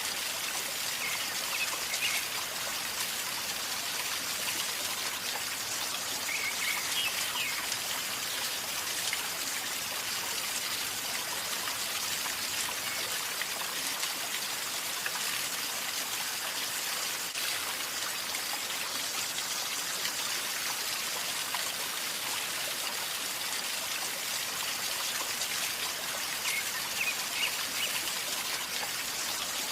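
A river gurgling and trickling as it flows calmly, a steady even rush of water. A few short high chirps, likely a bird, come about a second in, around seven seconds, and near the end.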